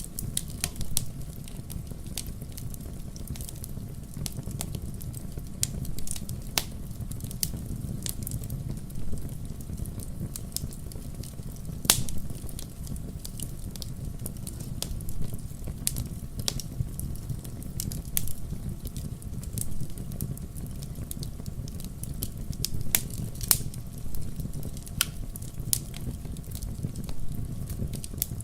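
Wood fire crackling in a fireplace: a steady low rumble of burning with irregular sharp pops and snaps scattered throughout, the loudest pop about twelve seconds in.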